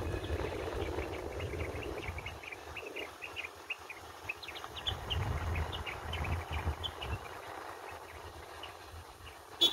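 Birds chirping in a quick run of short, high notes over a low rumble. A single sharp click comes just before the end.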